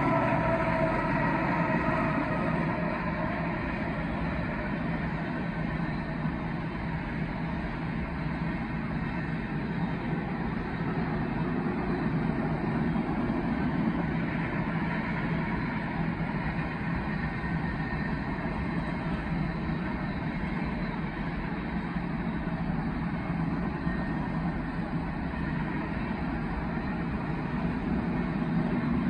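Freight train passing at speed. The diesel locomotives' engine drone falls in pitch and fades in the first couple of seconds, then covered hopper cars roll by with a steady rumble of steel wheels on the rails.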